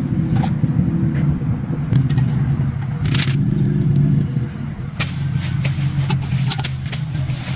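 A motor running with a steady low hum, with scattered clicks and taps over it.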